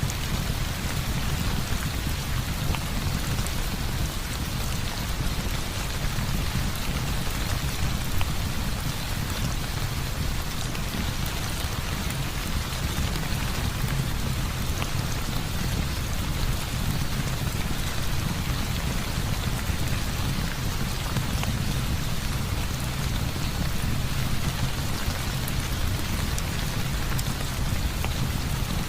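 Heavy rain falling steadily, a dense even hiss of drops with a steady low rumble underneath.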